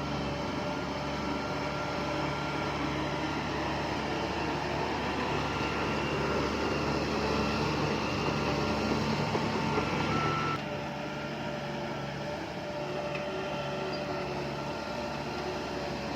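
Diesel engines of heavy earthmoving machinery running steadily. About ten seconds in, the sound drops abruptly to a slightly quieter, steady run.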